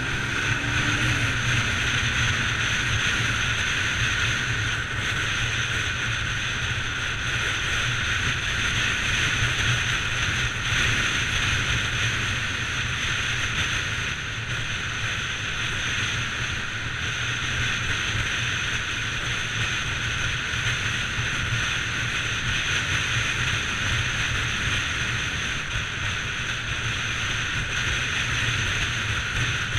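Bajaj Pulsar 200 NS single-cylinder engine running steadily at speed, its pitch rising briefly about a second in and then holding, with wind rushing over the microphone.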